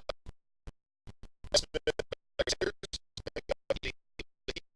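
Choppy, stuttering audio: short fragments of sound cut in and out many times a second, with gaps of dead silence between them. This is a recording dropout glitch, not a real sound in the room.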